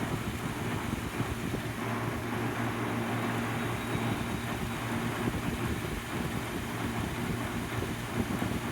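1996 Whirlpool window air conditioner running steadily, its rotary compressor humming under the rush of the fan's airflow, which sounds healthy with hardly any chatter.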